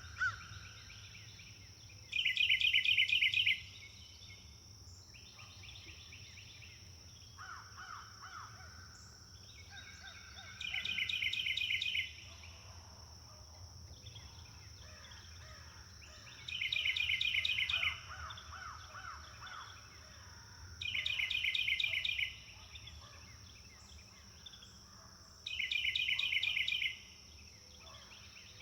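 A songbird singing a short, fast trilled phrase about every four to six seconds, with other birds calling more softly in between, over a steady high-pitched whine.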